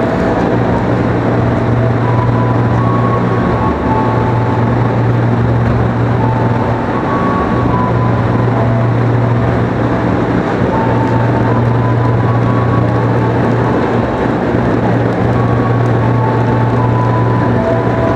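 KRL electric commuter train running with a steady loud low hum, with short higher tones coming and going over it.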